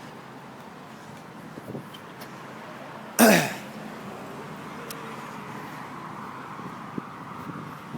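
A man clears his throat once, briefly and loudly, about three seconds in, over a steady background of road traffic.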